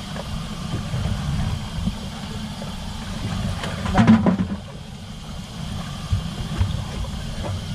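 Boat motor idling with a steady low rumble, and a brief louder sound about four seconds in.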